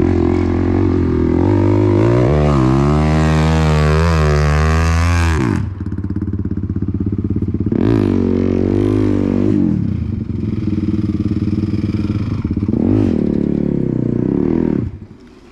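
Off-road vehicle engine revving hard: a long climb in pitch that drops off, then two shorter bursts of revs, and the engine sound cuts off near the end.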